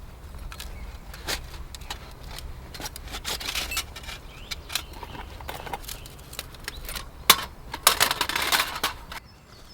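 Irregular clicks and clinks of objects being handled, with a denser, louder rattling stretch about eight seconds in.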